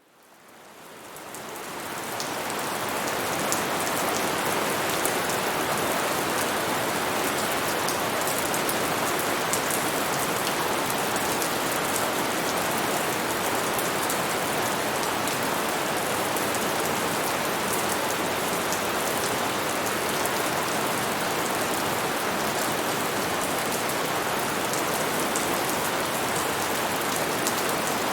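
Steady rain falling on a surface, fading in over the first couple of seconds, with individual drops ticking through the hiss.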